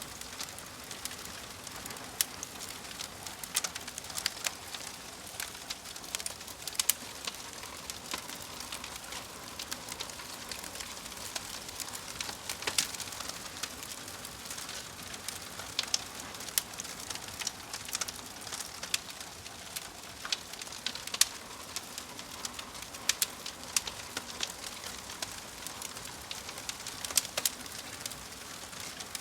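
Wood fire crackling steadily, with frequent irregular sharp pops and snaps over a soft hiss, and a bird calling in the background.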